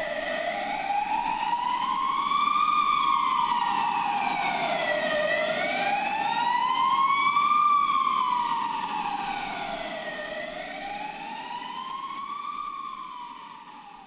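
Emergency vehicle siren wailing, its pitch rising and falling slowly about every five seconds, three times, then fading away near the end.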